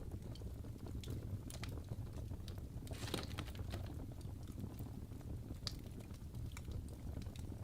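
Wood fire crackling: irregular pops and snaps over a low steady rumble, with a denser flurry of crackles about three seconds in.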